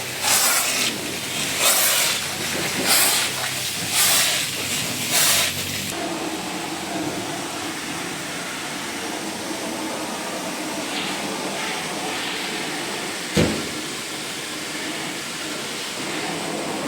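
Pressurised water spray hissing in short bursts about a second apart, then a steady hiss with a low hum underneath, broken once by a sharp knock.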